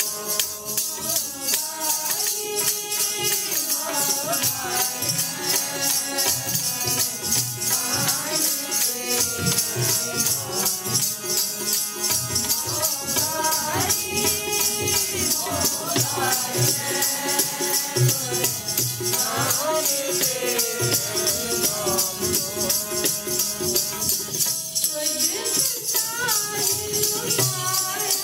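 Sikh kirtan: devotional singing with a sliding melody over a steady held drone, accompanied by a fast, continuous jingling rattle of percussion.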